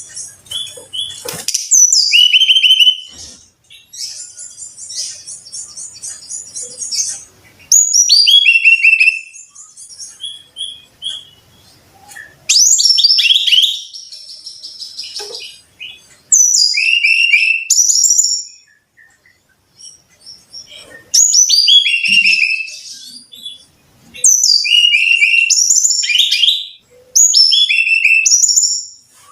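Brown-chested jungle flycatcher singing: repeated phrases of high whistled notes that fall in pitch, each phrase about two seconds long, with short pauses and fainter chirps between them.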